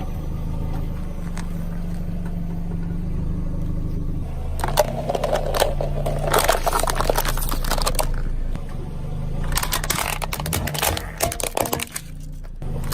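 Objects cracking and crunching as they are crushed, over a steady low machine hum that starts suddenly. The crunching comes in two long spells, one from about four and a half seconds in and one from about nine and a half seconds in.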